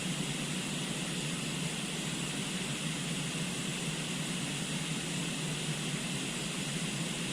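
Steady rushing of a river flowing, an even noise without breaks.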